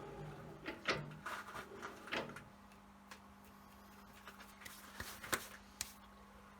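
Scattered clicks and knocks of metal tools and parts being handled at a benchtop metal lathe, over a steady low hum. There are a few knocks in the first two and a half seconds and a few more around five to six seconds in.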